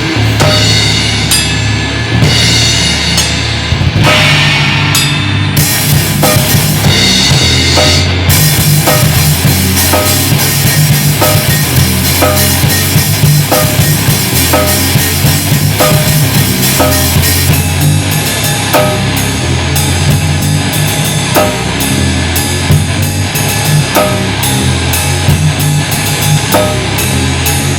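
Rock music with distorted guitars, a steady bass line and a busy drum kit with bass drum and cymbals, driving on at an even, loud level.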